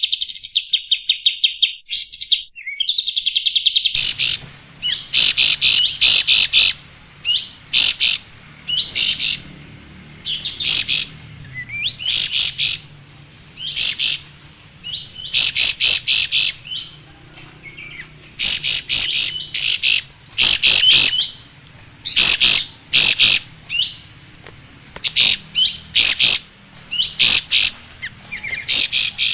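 Kapas tembak songbird singing: a rapid run of repeated high notes, then short, loud chirping phrases about once a second. A faint low hum sits behind the song from about four seconds in.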